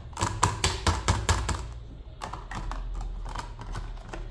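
Plastic parts of a drip coffee maker clicking and tapping as they are handled: a quick run of clicks in the first second and a half, then scattered single taps.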